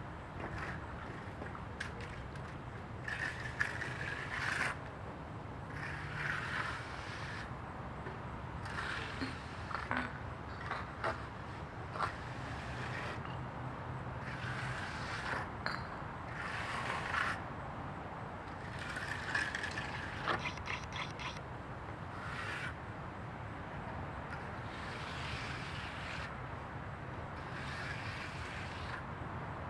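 Irregular scraping and rustling strokes every second or two, with scattered clicks and a short run of rapid ticks about two-thirds of the way through, over a steady low hum.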